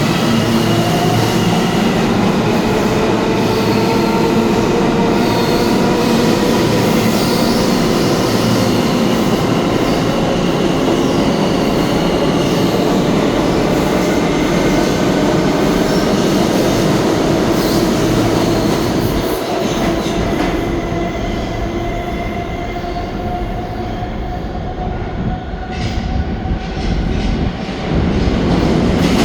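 R160 subway train running through the station, with the whine of its electric traction motors in several gliding tones over wheel and rail noise and some wheel squeal. It grows quieter about two-thirds of the way in, then gets loud again near the end.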